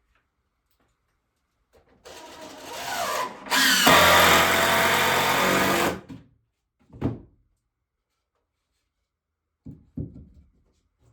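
Power drill running for about four seconds, speeding up at first, then after a brief break running steadily at full speed before it stops. A few short knocks follow.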